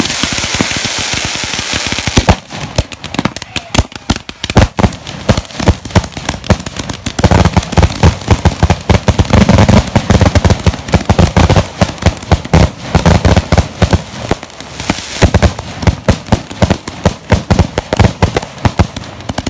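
Consumer fireworks in a finale barrage: a hiss for the first two seconds, then many shells launching and bursting in a rapid, overlapping string of cracks and bangs. The firing is heaviest from about seven to twelve seconds in.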